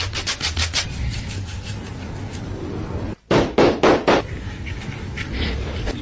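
A run of quick knocks, about seven a second, then three or four louder knocks about halfway through, over a steady background hiss.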